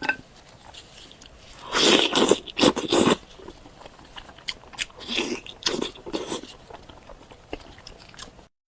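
Close-up eating sounds of a pig's ear: loud crunchy bites into the cartilage about two seconds in and again around five to six seconds in, with quieter chewing and mouth clicks between. The sound cuts off suddenly near the end.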